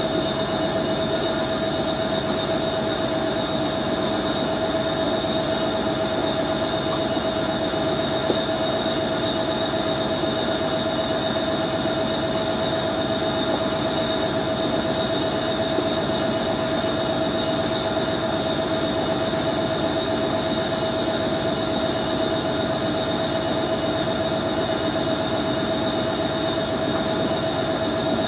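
Hoover A3060 Electronic 1100 washing machine spinning at speed, a steady motor whine with a high screech from its motor bearings, which the owner reckons are dry and need oiling.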